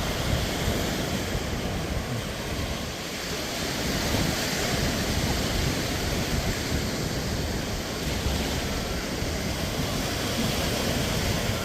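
Surf breaking and washing up on a sandy beach, a steady rushing sound that swells slightly about four seconds in, with wind rumbling on the microphone underneath.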